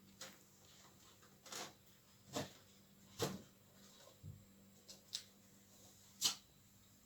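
Faint scattered taps and scuffs, about eight in seven seconds, over a low steady hum.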